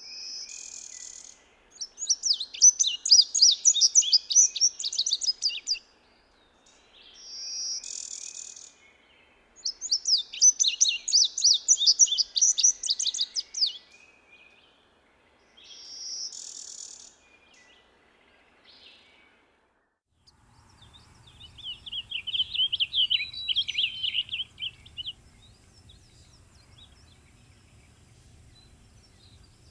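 A songbird singing a rapid, high warbled song of about four seconds, three times, with short single notes between the songs.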